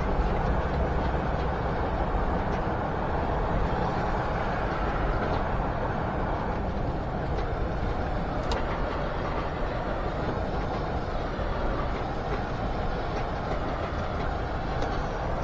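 Steady drone of a semi-truck at highway speed heard from inside the cab: engine and road rumble, constant throughout.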